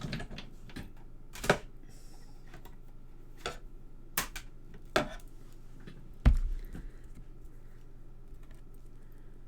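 Scattered light taps and clicks of die-cut card and thin metal cutting dies being handled, about six in all, with a louder thump about six seconds in.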